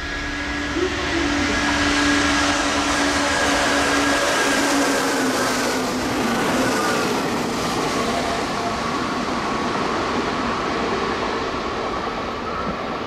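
Red Meitetsu electric commuter train running through a station at speed without stopping: a steady rush of wheels on rail with a whine from the running gear under it. It grows loud about a second in and slowly eases as the train goes by.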